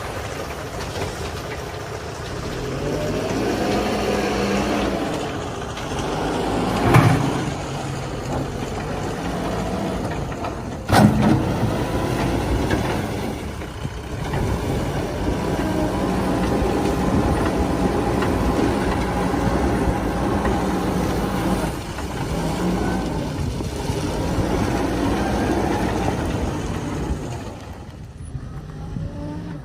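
Backhoe loader's diesel engine working, repeatedly revving up and dropping back as it digs and loads. There is a loud clunk about a quarter of the way in and a sharper one a few seconds later, and the engine eases off near the end.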